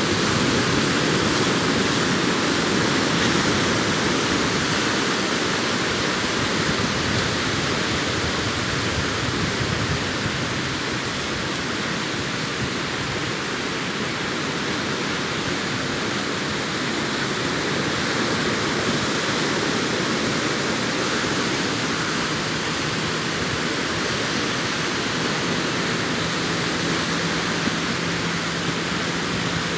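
Surf from the sea washing onto a beach, a continuous dense hiss with slow gentle swells and no separate breaking crashes. A faint low steady hum joins about two-thirds of the way through.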